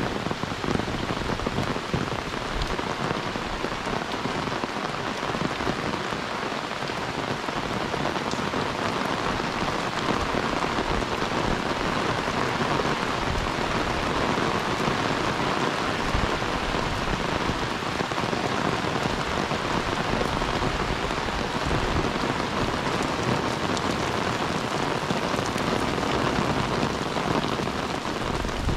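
Heavy rain falling steadily, on an umbrella held overhead and on the wet road.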